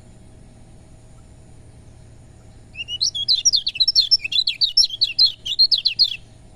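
Kecial kuning (a Lombok white-eye) singing a fast run of high, chirping notes for about three and a half seconds, starting a little before halfway through. A low steady hum sits underneath.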